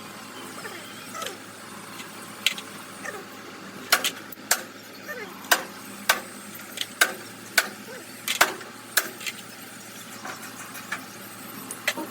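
A series of sharp knocks, most of them coming about one every half second in the middle stretch, over a steady background hum.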